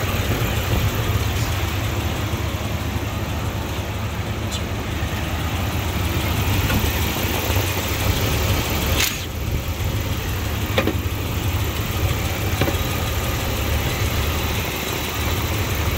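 Jeep Wrangler TJ's 4.0-litre inline-six idling steadily while its intake is being worked on, with a sharp click about nine seconds in.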